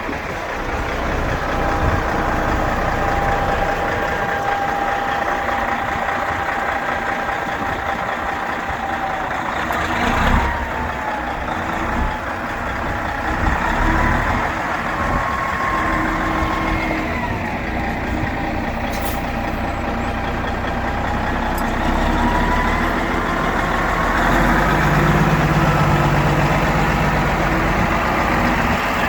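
1995 Peterbilt 377 truck's diesel engine running steadily, with a whine that rises and falls in pitch a few times.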